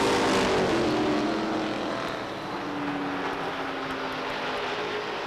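Several late model sportsman stock car engines running at speed around an oval track, their pitches sliding slowly. The sound fades over the first couple of seconds as the field draws away, then holds steady.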